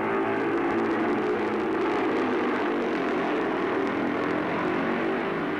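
Racing motorcycle engines running at high revs, a steady sustained engine note with little change in pitch.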